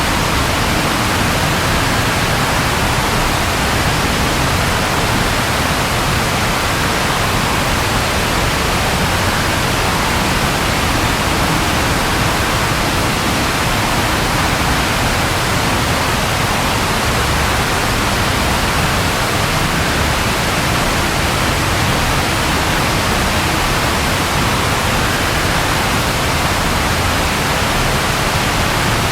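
Steady, continuous rainfall, an even hiss with no breaks and no thunder.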